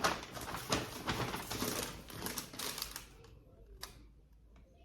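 Close handling noise: a sharp click, then about three seconds of dense rustling and clicking that thins out to a few scattered clicks near the end.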